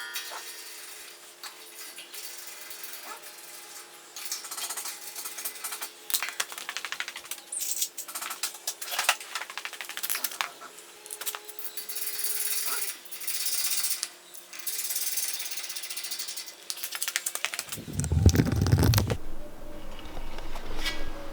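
Metal hand-tool work: a run of irregular metallic clicks, clinks and rattles over a faint steady hum, with a louder low rumble lasting about a second near the end.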